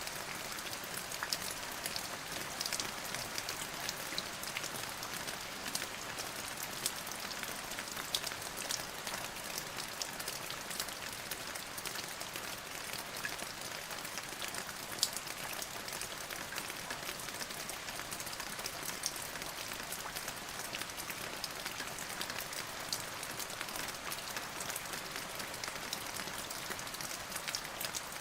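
Steady rain falling on a surface: an even hiss with many small drop ticks scattered throughout.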